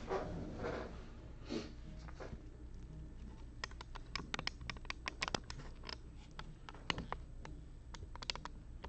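Soft rustling, then a run of sharp, irregular clicks and taps from small objects being handled, over a low steady hum.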